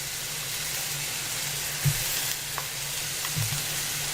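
Food frying in hot oil in a deep-dish skillet: a steady sizzling hiss, with a few light knocks, the loudest about two seconds in.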